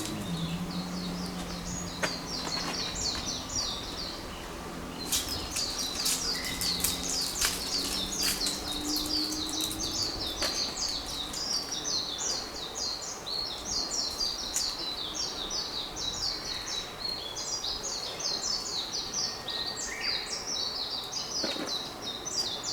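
Songbirds chirping in a continuous rapid twittering, with a few sharp clicks or taps. A faint low steady hum fades out in the first several seconds.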